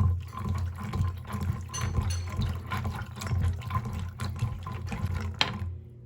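Liquid running or pouring into a container, a steady rush over a low hum, cut off suddenly near the end.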